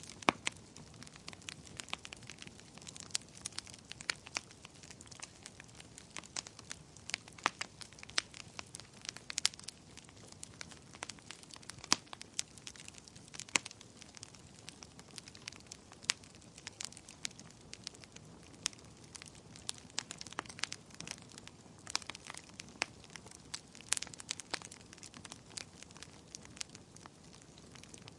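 Wood bonfire crackling: sharp pops and snaps at an irregular pace, several a second, a few much louder than the rest, over a steady low hiss of burning.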